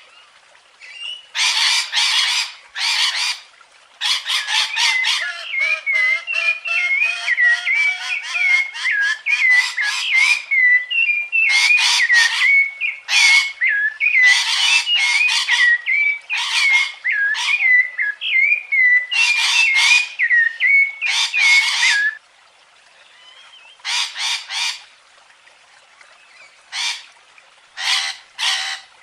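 Birds calling: clusters of short, harsh squawks with short gaps between them, and through the middle a wavering, warbling whistled song running under them.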